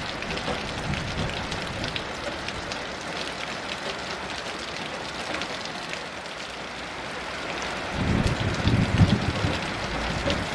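Heavy rain falling steadily with a patter of individual drops. About eight seconds in, a low rumble of thunder swells and fades.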